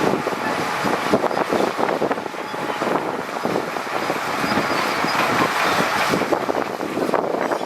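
Heavy earthmoving machinery at work on stone and soil: a steady, dense clatter of many small irregular knocks over machine noise.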